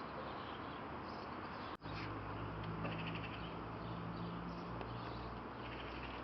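Steady background noise with faint, scattered bird chirps. A brief dropout about two seconds in, after which a low steady hum joins.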